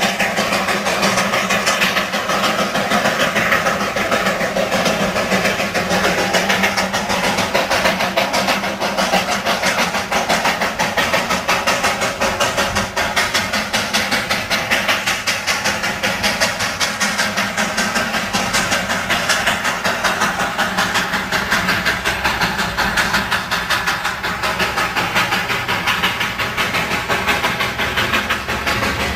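Darjeeling Himalayan Railway toy train in motion, heard from on board: a loud, steady rattling noise of the running train.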